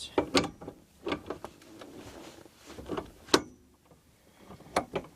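Manual gear shifter of a 1969 Volkswagen Super Beetle being worked into reverse, giving a string of short clicks and clunks, the sharpest a little past the middle. The owner says the shifter linkage needs to be fixed.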